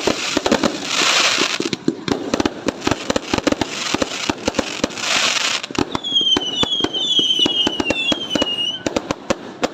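Fireworks going off: a rapid, irregular barrage of crackling pops and bangs, with two hissing bursts about one and five seconds in. From about six seconds in comes a run of five short, high whistles, each falling in pitch.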